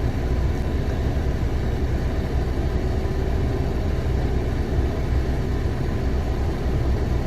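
2015 Nissan Versa's four-cylinder engine idling steadily, a low even rumble, with the AC compressor not engaged.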